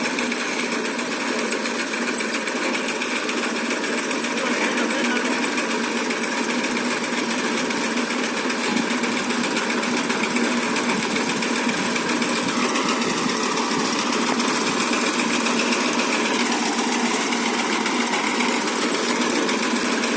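Massey Ferguson tractor's diesel engine running steadily, a loud even clatter that holds without break.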